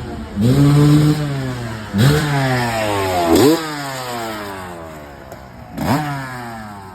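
Vintage motocross bike engine revved in about four short blips, the revs dropping back after each one and fading toward the end.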